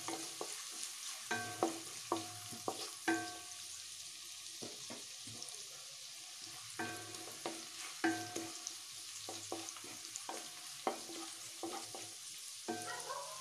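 Shredded cabbage and green chillies sizzling in ghee in a nonstick wok while a wooden spatula stirs them, knocking and scraping against the pan; each knock rings briefly. The knocks come in bunches, with a quieter stretch of sizzling alone in the middle.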